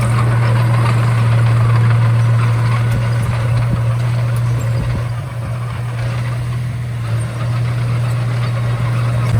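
Komatsu D31A bulldozer's diesel engine running with a steady low hum, easing off slightly around the middle.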